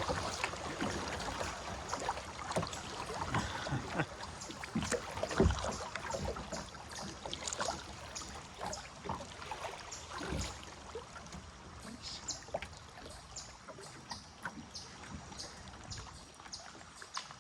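Kayak paddle strokes with water splashing, dripping and gurgling around an 8-foot kayak's hull in a fast, shallow stretch of river, with scattered small knocks. A louder low knock comes about five seconds in, and the splashes grow sparser and quieter toward the end.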